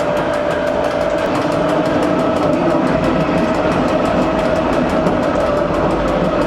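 Train running steadily, with a constant whine and a quick, even clicking over the noise of the wheels.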